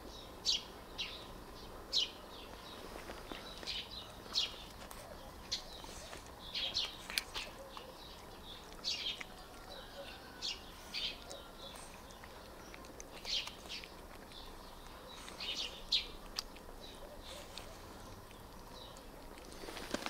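Small birds chirping in short, irregular high calls, some in quick clusters, over a faint steady background.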